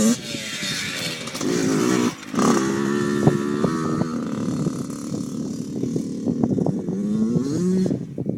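Dirt bike engine revving up and down as it is ridden, with a short break in the revs about two seconds in, then revving again with sharp knocks and rattles, and dropping off near the end.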